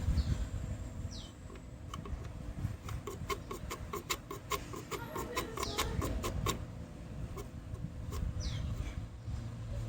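Nissan Vanette A15 engine running with a low rumble, and a run of rapid ticking clicks from about three to six and a half seconds in. This is the timing chain noise the owner puts down to neglected engine oil changes. Short falling bird chirps come near the start and near the end.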